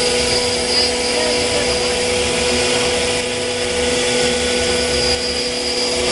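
Double-head CNC router running steadily: a constant whine from its HSD spindles over an even machine noise.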